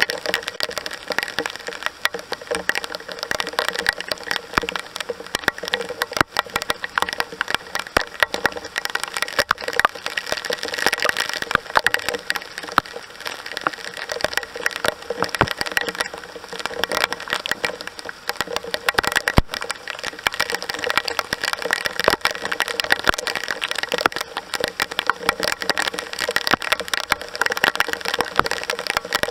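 Heavy rain pouring down, a steady dense hiss with many sharp close drop impacts crackling through it.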